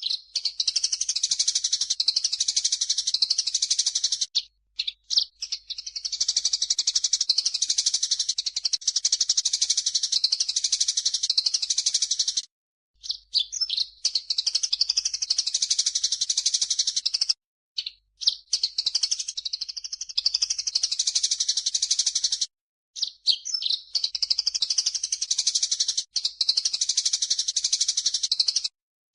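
Recorded songbird chatter from a mixed bird-song training track of grey-cheeked bulbul (cucak jenggot) and Eurasian tree sparrow (burung gereja): rapid, high-pitched, unbroken twittering and chirping. It comes in stretches of four to five seconds, each cut off sharply by a brief silence, as in an edited loop.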